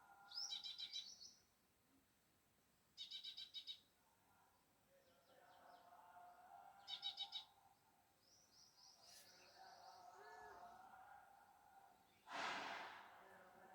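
Faint bird chirping: several short bouts of quick, trilled high chirps, with a brief soft whoosh about twelve seconds in.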